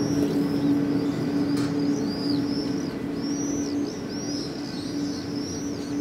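Many birds chirping, short high calls overlapping in quick succession, over a steady low hum that drops off about four seconds in.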